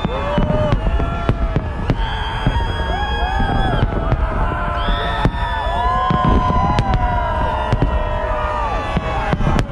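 Salute fireworks: many whistling shells at once, their whistles gliding up, holding and falling away, over dense sharp cracks and bangs and a steady low rumble.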